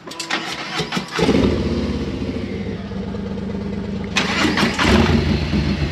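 Motorcycle engine starting: a few clicks, then it catches about a second in and runs steadily, with a louder burst about four seconds in.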